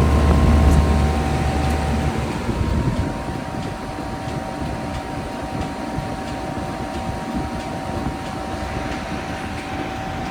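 Outdoor heat pump unit running with its coil iced over, not yet in defrost: a steady fan and machine drone with a faint steady whine. A deep hum drops out about two seconds in while the rest runs on.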